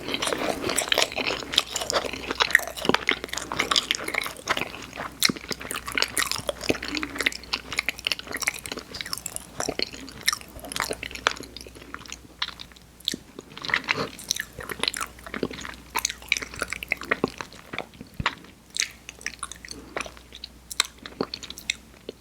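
Close-miked chewing and crunching of candy made to look like a marker pen and coloured paper. Dense crunches through the first half thin out to sparser, softer chews near the end.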